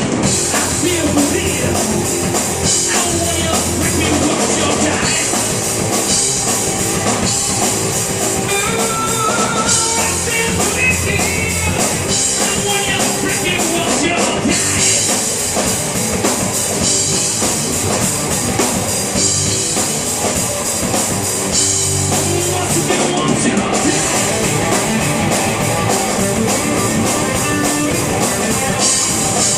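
Rock band playing live, with drum kit and guitar, loud and steady.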